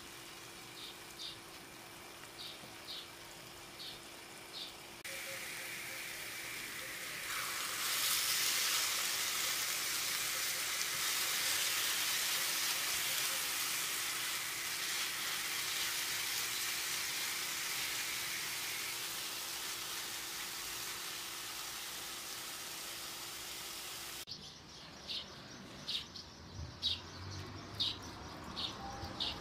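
Grated zucchini frying in oil in a pan as it is stirred: a steady sizzle that swells about seven seconds in and slowly eases. Near the end it gives way to small birds chirping repeatedly, about twice a second, with a few soft knocks of the spatula in the pan.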